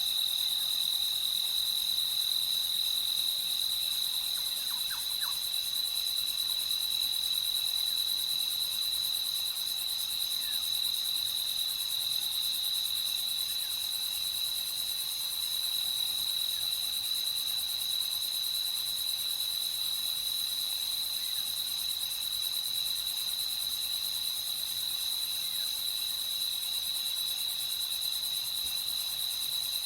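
Crickets chirping in a steady, unbroken night chorus, pitched high, with a faint brief call or two from some other creature about five seconds in.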